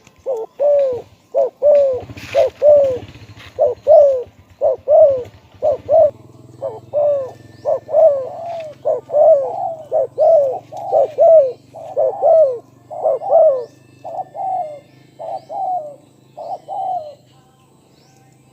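Spotted dove cooing: a long run of short, arched coo notes at about one to two a second, stopping shortly before the end.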